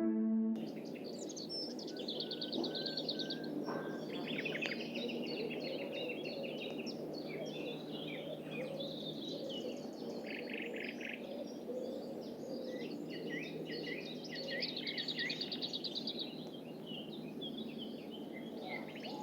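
Several small birds chirping and singing fast trills, many calls overlapping, over a steady low hum.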